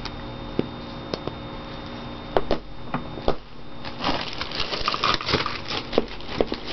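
Scattered clicks and light knocks, then from about four seconds in a busy run of scraping and tapping: paint containers and a palette knife being handled on a tabletop.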